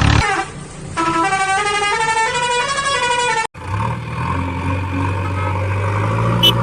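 A short electronic tune of quick stepped beeping notes, then after an abrupt cut a steady low engine hum like a toy vehicle's engine sound effect, with two short high blips near the end.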